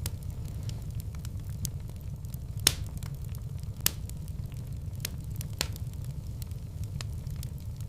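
Wood fire burning in a fireplace: a steady low rumble of flames with scattered crackles and sharp pops, the loudest about three and four seconds in.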